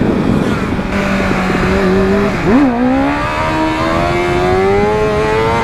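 Motorcycle engine under way, holding a steady pitch, then dipping and jumping sharply about two and a half seconds in before rising steadily as the bike accelerates. Wind rushing over the helmet microphone.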